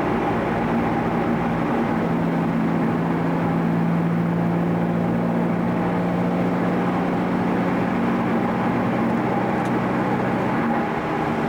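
Car engine and road noise inside a moving car's cabin: a steady drone whose engine note shifts slightly about two seconds in and again near the end.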